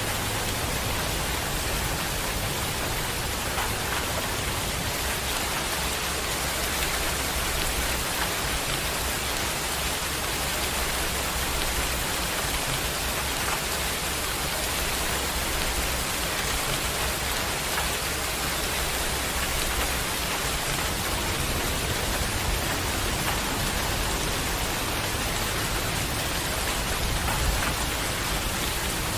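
Heavy rain falling and pattering steadily on surfaces.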